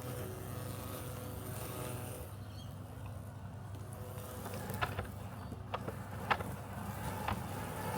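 Robotic lawn mower running with a steady low hum. A few short sharp clicks come in the second half.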